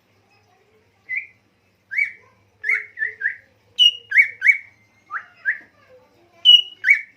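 A songbird's whistled song: about a dozen short, loud whistled notes, starting about a second in, each sweeping quickly up to about the same pitch, two of them higher with a sharp snap, spaced by brief pauses. It is birdsong used as masteran, a tutor song for training a caged cucak ijo.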